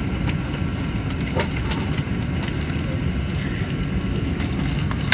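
Cabin noise of a KTM ETS electric train pulling out of a station: a steady low rumble from wheels on the track, with a few light clicks and knocks.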